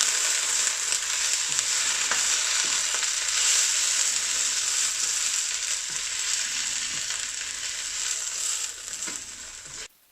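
Fresh methi (fenugreek) leaves sizzling in hot oil with onion in a non-stick pan as they wilt. It is a steady frying hiss that eases slightly, then cuts off suddenly near the end.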